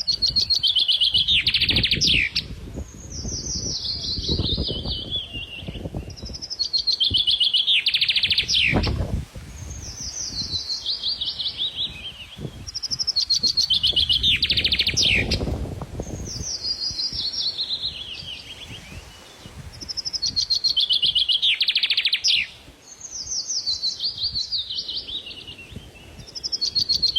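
A songbird singing, repeating a phrase of rapid high notes that slide down in pitch about every three seconds, with a low rumble coming and going underneath.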